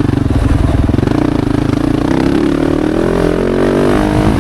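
Yamaha YZ450F's 450cc single-cylinder four-stroke engine running hard while being ridden, with the revs climbing in the second half.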